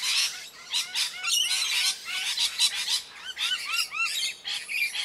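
Birds chirping and calling rapidly: many short overlapping chirps and whistles, with a run of four short arched calls a little past the middle.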